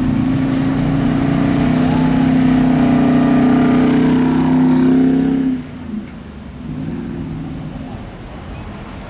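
A pickup truck's engine revved and held at high revs with a steady pitch, cutting off suddenly about five and a half seconds in, after which lower traffic noise from passing vehicles carries on.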